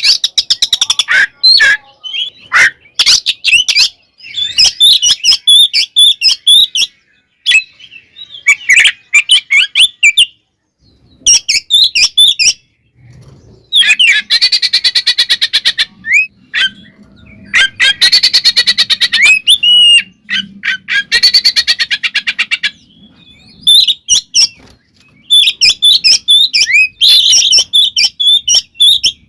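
Oriental magpie-robin (kacer) singing loudly in its aggressive, territorial 'fighting' song, with bursts of varied whistled phrases and fast chattering runs of repeated notes, broken by short pauses.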